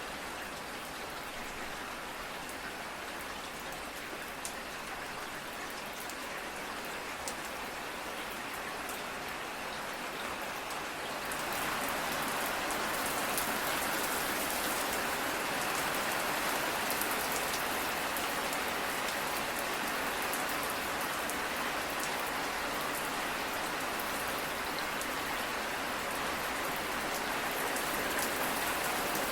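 Steady rain falling, with individual drops ticking through it. About eleven seconds in it turns louder and fuller, as a heavier downpour.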